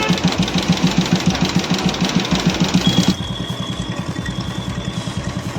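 Royal Enfield Classic 350 single-cylinder engine idling with an even, steady beat, just after its hydraulic tappets were replaced; the tik-tik tappet noise is gone. The sound drops a little in level about three seconds in.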